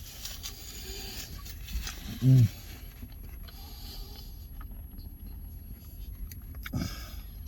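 A man eating: faint chewing and small clicks, with a short hummed voice sound about two seconds in and another brief one near the end.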